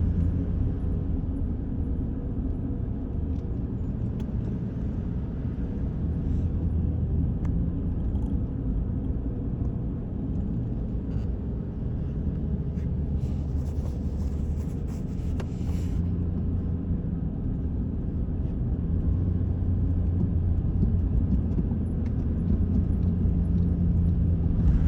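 Truck driving along a road: a steady low engine hum and road rumble, with a brief hiss of higher noise for a couple of seconds about halfway through.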